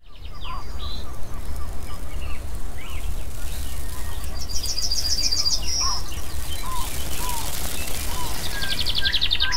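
Woodland birdsong, with several birds calling in short chirps. A rapid trill of high notes comes about halfway through and again near the end, all over a steady low rumble.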